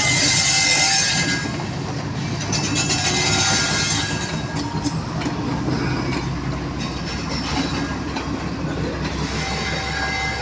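Freight train wagons rolling past on the rails, with a steady rumble, clicks from the wheels over the rail joints and thin, brief wheel squeals.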